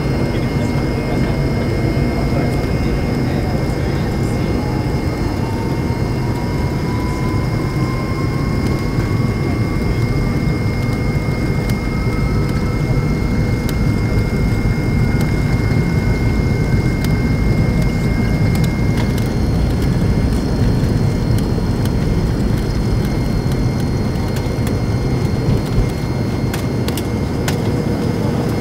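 Jet airliner engine and cabin noise heard from a passenger seat: a steady, loud rush with a faint whine that rises slowly in pitch over the first twenty seconds or so.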